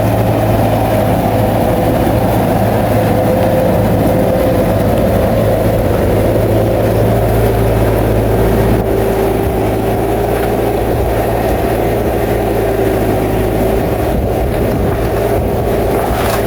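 Bulldozer's heavy diesel engine running steadily with a deep, even hum, a whining tone over it dropping slightly in pitch about six seconds in.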